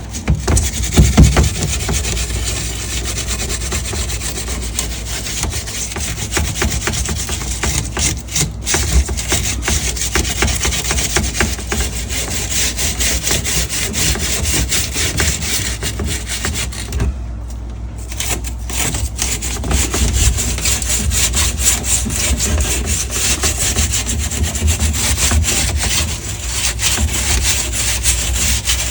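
Rapid back-and-forth scrubbing on a commercial refrigerator, a dense rasping rub kept up steadily with a short pause about seventeen seconds in.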